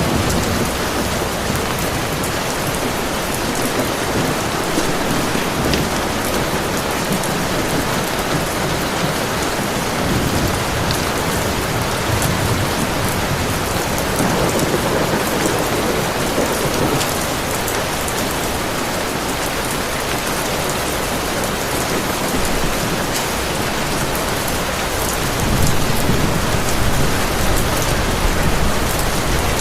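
Heavy rain falling steadily. Low thunder rumbles swell about halfway through and again near the end.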